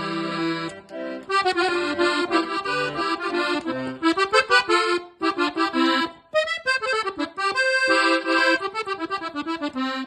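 Hohner Concerto III accordion being played: a lively melody over held bass notes, then fast, short repeated notes with a few brief breaks in the second half.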